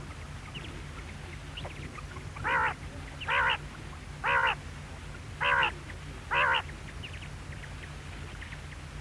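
Quail calling: five short nasal calls about a second apart, with fainter high chirps between them. A steady low hum runs underneath.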